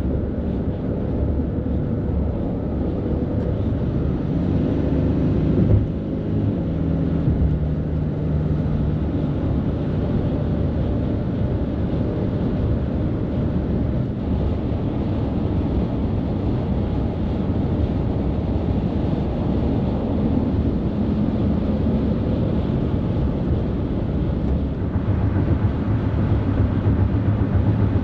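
Highway traffic with heavy trucks passing: a steady low rumble of engines and tyres. A truck's engine drone stands out between about four and nine seconds in, and the rumble grows louder near the end as another heavy vehicle comes by.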